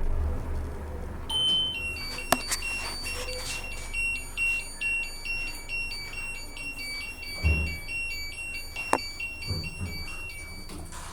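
A washing machine's universal control board buzzer beeping a repeating electronic tune of short, high tones alternating in pitch for about nine seconds: its error alarm, which the technician puts down to cut wires on the board's sensor and water valve. A few sharp clicks and a low knock come in between.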